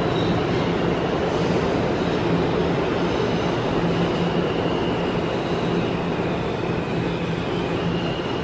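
New York City subway train moving along the platform: a steady rumble of wheels on rail with a low hum and thin high tones above it, easing slightly near the end.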